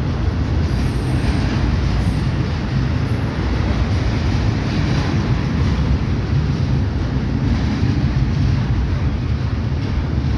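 Kansas City Southern freight train rolling past: a steady, loud rumble of the cars on the rails.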